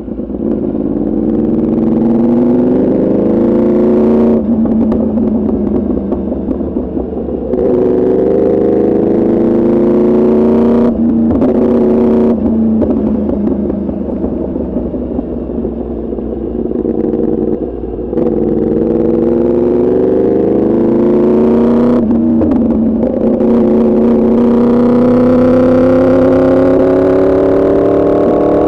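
2024 Yamaha R1's crossplane inline-four through an Arrow Pro Racing exhaust, pulling hard. The engine pitch climbs steadily, then drops sharply at several quick gear changes, and climbs again after each one.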